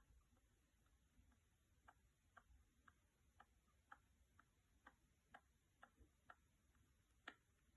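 Faint, short clicks from a pet rat, repeating fairly evenly at about two a second, with one slightly louder click near the end.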